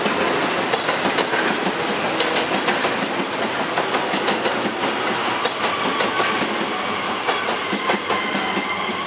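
A train running on the rails: a steady rolling noise with many clicks of wheels over rail joints and points. A thin, steady high whine comes in during the last few seconds.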